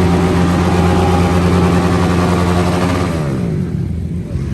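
A bike engine running steadily at raised revs; about three seconds in the revs fall away, its pitch sliding down, and it settles lower and quieter.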